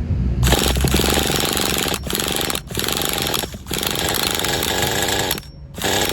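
Roto starter spinning the HPI G3.0 3.0cc nitro engine to start it, a loud rattling buzz in several bursts with brief pauses, the longest near the end, while the glow-plugged engine tries to catch.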